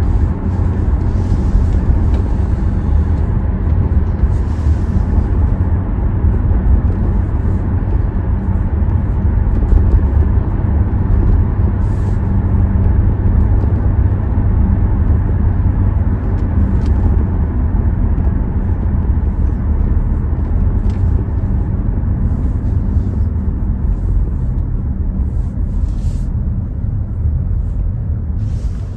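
Hyundai Tucson driving at a steady pace: a continuous low rumble of engine and road noise.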